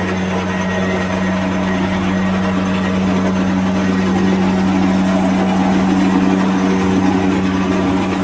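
Machinery running steadily: a constant low hum with a busy mechanical noise over it.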